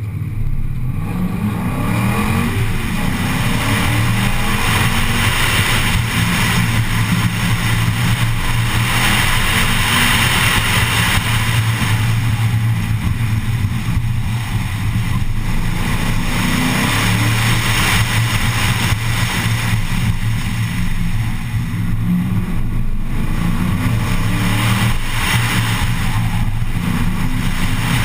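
A muscle car's engine run hard through an autocross course, the revs climbing sharply at the start and then rising and falling repeatedly as it accelerates and lifts between corners, with tyre and wind noise over it.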